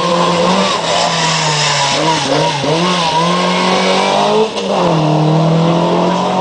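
Skoda 130 RS rally car's engine revving hard as it is driven through a tight cone course. The pitch rises and falls with the throttle, dropping briefly twice before climbing again.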